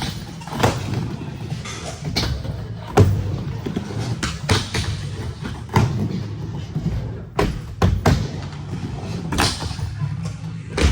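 Skateboard riding a mini ramp: a steady rolling rumble from the wheels, broken by a dozen or so sharp knocks and thuds as the trucks and board hit the coping and deck.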